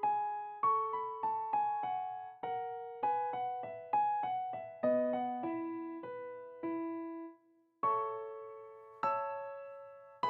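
Background music: a slow, simple melody played one note at a time on an electric piano, each note struck and left to fade, with a brief pause about seven seconds in.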